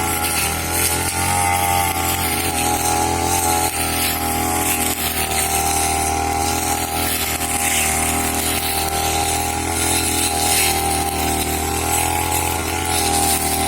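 Grass-cutting machine (brush cutter) engine running steadily at high speed, its pitch wavering slightly.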